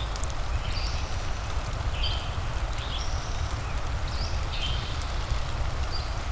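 Steady rain ambience over a constant low rumble, with short high chirping animal calls repeating irregularly about every second.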